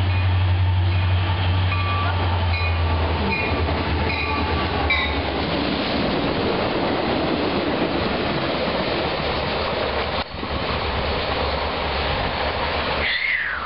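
Diesel-hauled freight train of boxcars passing close by at speed: a low steady locomotive engine drone at first, then the continuous rumble and clatter of the cars rolling past.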